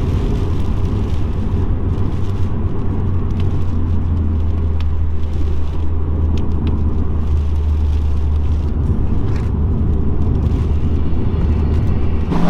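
Subaru Impreza WRX's flat-four boxer engine droning steadily at cruise, with tyre and road noise from driving on a wet road.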